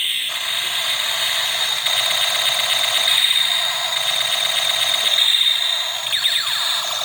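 A small electric motor whirring steadily, with a repeating electronic chirping starting near the end.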